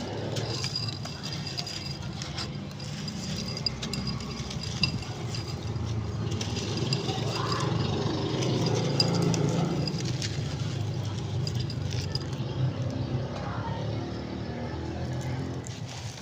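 Dry dyed sand and chalk shapes being crumbled by hand, with light crunches and clicks over a steady low rumble and faint voices in the background.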